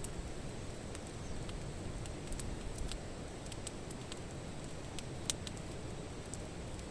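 Wood fire crackling: scattered sharp pops, a few a second and one louder about five seconds in, over a low steady rumble.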